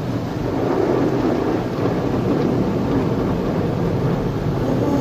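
Automatic car wash working over the car, heard from inside the cabin: a steady, rumbling rush of water and equipment on the bodywork that grows a little louder about a second in.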